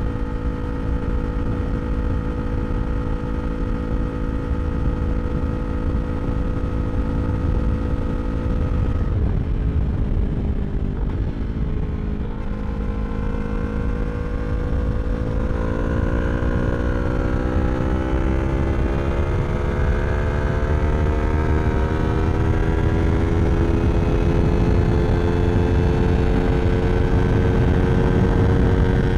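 2023 Yamaha R3's parallel-twin engine through an Akrapovič slip-on exhaust, holding steady revs, then dropping in pitch about nine seconds in and climbing slowly and steadily for the rest as the bike accelerates. Heavy wind rumble on the microphone underneath.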